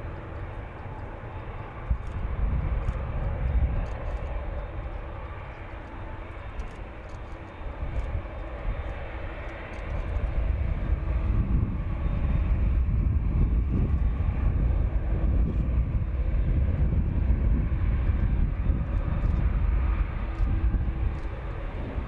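Jet airliner engine noise on the landing approach, a rumbling roar that swells about halfway through and stays loud until near the end.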